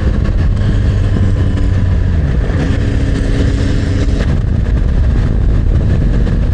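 Yamaha MT-09's three-cylinder engine running while riding, under heavy wind rumble on the microphone. The engine note dips and climbs back about two to three seconds in.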